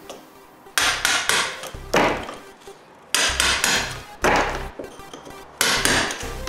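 Claw hammer striking a steel chisel to cut plaster and brick out of a solid wall: five blows about a second apart, each ringing briefly as it fades.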